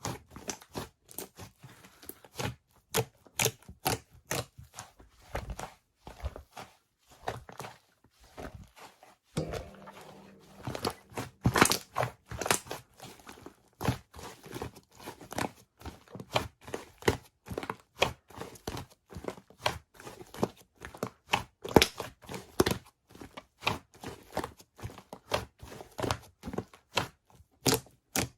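Bread being torn and squeezed close to the microphone: an irregular, rapid run of crisp crackles and taps, busier from about nine seconds in.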